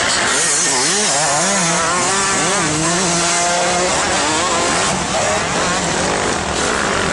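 Dirt bike engine revving, its pitch swinging up and down with the throttle and holding steady for a moment about three seconds in, over a constant loud rush of noise.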